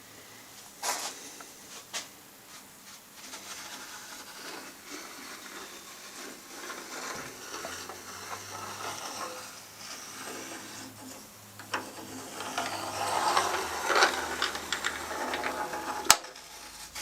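Metal tool parts handled on a table saw top: irregular scraping and sliding with scattered clicks, busier toward the end, then a sharp click, as a mitre gauge fitted with a bolt is worked against the rip fence to check its alignment. The saw motor is not running.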